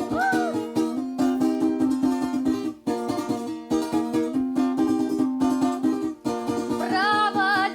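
Instrumental interlude of a Russian folk 'stradaniya' song: a plucked-string instrument plays fast repeated notes over a held low note, with two brief pauses. Women's voices come back in near the end.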